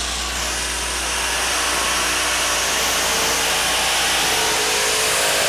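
Modified pulling tractor's engines running as a dense, steady noise that grows slowly louder, with the engine pitch rising slightly in the second half.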